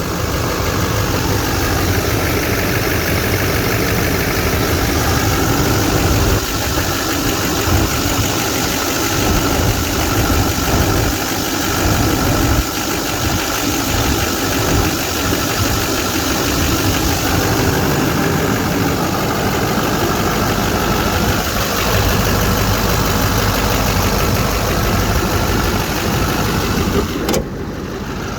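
Diesel pickup engine idling steadily with a light clatter. Near the end there is a short click and the sound drops a little in level.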